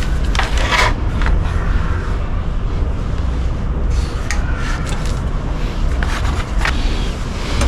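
Scattered knocks and scrapes of metal parts and tools being handled, over a steady low rumble.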